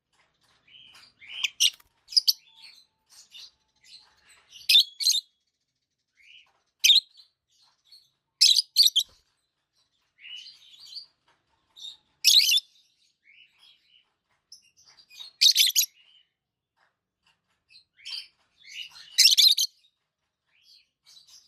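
Young parrots calling: short, shrill calls every two to three seconds, with softer chirps and chatter in between.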